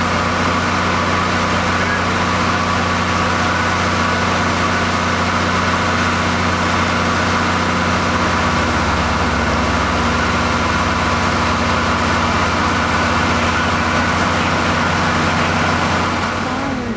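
Large vehicle engine running steadily at idle. Its note shifts slightly about halfway through and drops away just before the end.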